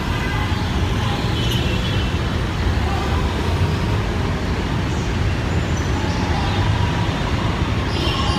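Steady road traffic noise from passing vehicles, a continuous low rumble.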